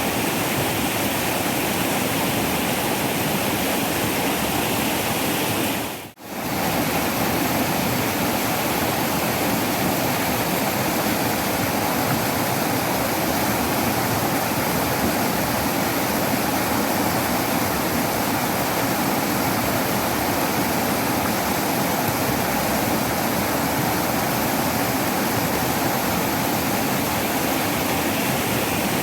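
Waterfall: a steady, even rush of falling water. It drops out briefly about six seconds in, then resumes at the same level.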